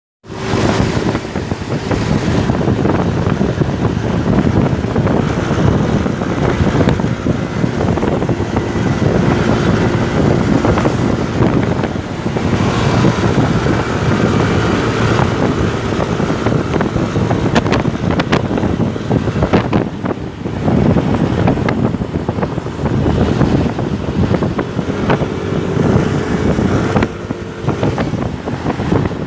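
Motorcycle engine running on the move, mixed with heavy wind buffeting on the microphone; the engine note drifts slightly up and down.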